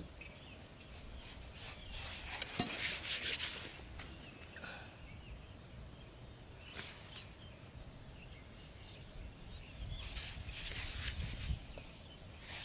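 Two short bouts of rubbing and scraping, one about two seconds in and one near the end, with a single sharp knock in the first bout, over a quiet outdoor background.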